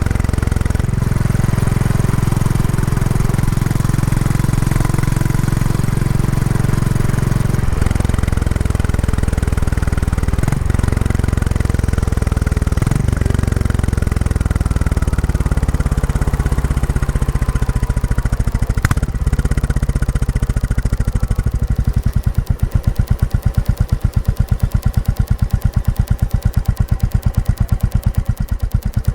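Royal Enfield Classic 350's single-cylinder engine through its stock exhaust, pulling steadily under way during a break-in ride. A little past the middle it slows, and about three-quarters through it settles to idle, each exhaust beat coming through as a fast, even thump.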